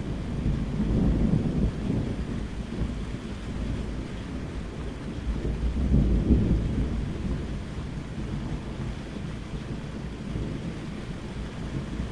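Steady rain falling, with thunder rumbling low twice: once about a second in and again around six seconds.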